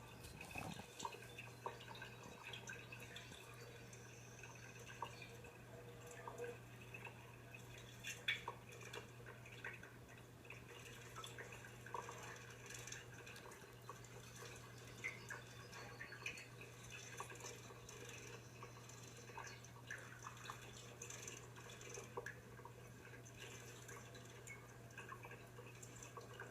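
Faint small clicks and ticks at irregular intervals over a steady low hum.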